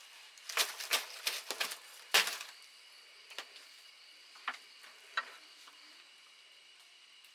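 A quick run of sharp cracks and snaps, the loudest about two seconds in, followed by three single clicks spaced about a second apart, over a faint steady high-pitched hum.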